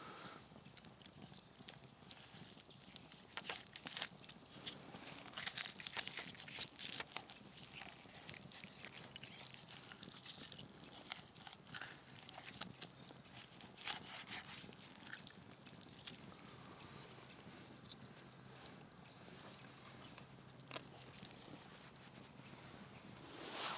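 Irregular soft crunches and clicks of chewing, densest in the first half and thinning out later.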